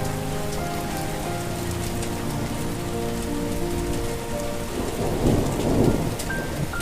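Steady rain falling, with a rumble of thunder swelling about five seconds in, under soft held notes of a slow melody.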